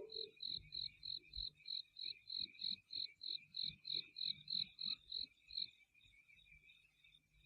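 Crickets chirping in an even rhythm, about three chirps a second, then fading to a fainter, steadier chirping about six seconds in.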